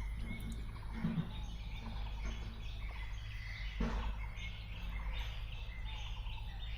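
Birds chirping over a steady low hum, with one soft knock about four seconds in.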